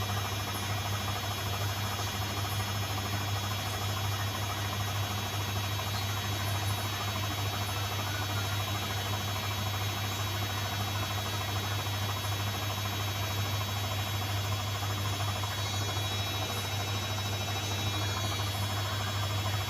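Zanussi washing machine running on a cotton wash cycle, a steady hum with no change.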